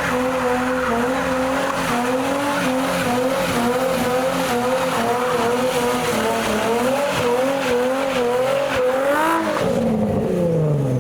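Nissan 350Z's V6 held at steady high revs through a long burnout, with tyres spinning and squealing. Near the end the revs flare up briefly, then fall away.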